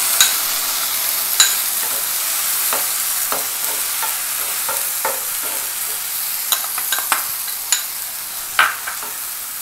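Ground coconut paste frying in hot coconut oil with fried shallots, dried red chillies and curry leaves, sizzling steadily while a spoon stirs it and knocks against the pan about nine times. The sizzle slowly dies down as the paste settles into the oil.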